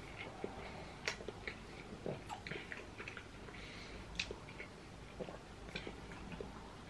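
Two people chewing mouthfuls of beef burger in a soft bun with cheese: quiet wet smacks and small mouth clicks at irregular intervals.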